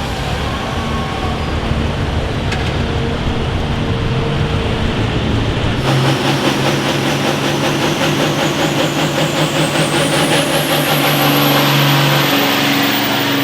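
Pulling vehicle's engine running hard under load. About halfway through the sound changes abruptly to a different engine note, and a high whine climbs steadily in pitch toward the end.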